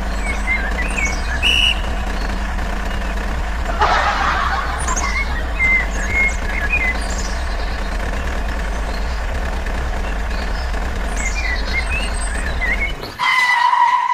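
A steady low motor hum, with short high bird-like chirps over it and a brief hiss about four seconds in.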